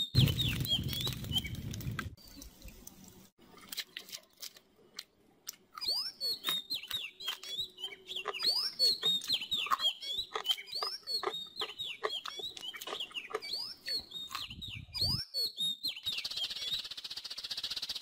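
Small birds chirping, many short rising and falling chirps in quick succession, thinning out for a few seconds early on and then coming thick again. A low rushing sound lies under the first two seconds, and about sixteen seconds in a steady high hiss joins.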